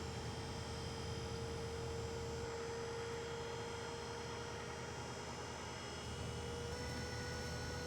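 Steady mechanical hum with a steady whine, like a machine running at constant speed; the tone shifts slightly near the end.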